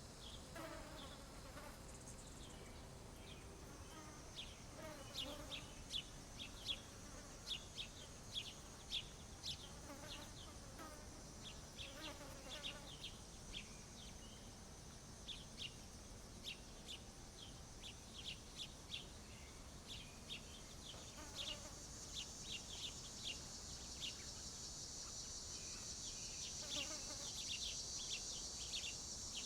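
Small birds chirping in quick short notes, scattered throughout, over a steady high-pitched insect buzz that grows louder in the last several seconds.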